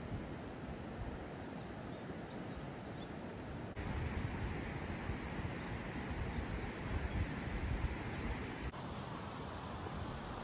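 Steady outdoor noise with short, high bird chirps in the first few seconds, changing abruptly twice where the recording is cut.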